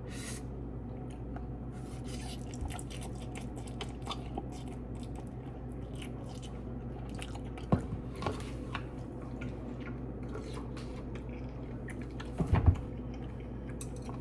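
A person chewing mouthfuls of spicy instant noodles, with small wet clicks over a steady low hum. A few louder short knocks come about eight seconds in and again near the end.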